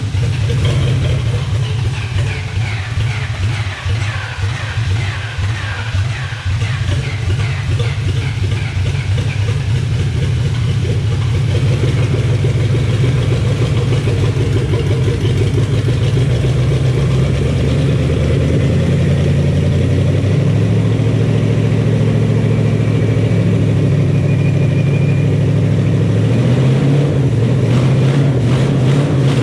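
Carbureted Ford 4.6 32-valve DOHC modular V8 running steadily on the choke just after start-up, growing a little louder about ten seconds in.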